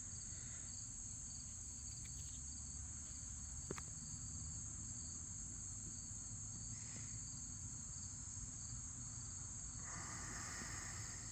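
Steady high-pitched insect chorus, with a fainter chirp repeating about three times a second, over a low outdoor rumble; a single faint click about four seconds in.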